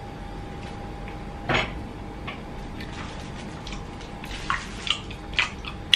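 Wet mouth sounds of chewing raw honeycomb: sticky smacks and slurps of honey and wax. One loud one comes about a second and a half in, and a quick run of them near the end.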